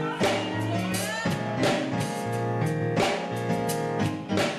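Instrumental gospel band music between sung lines, with a low bass line and a steady drum beat.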